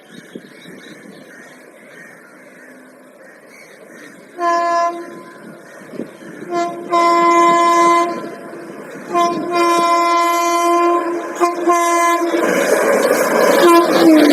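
A fast express train sounding its horn in a series of blasts as it approaches, a short one first and then longer held ones, followed by the loud rushing roar of the train passing at speed. The horn's pitch drops near the end as the train goes by.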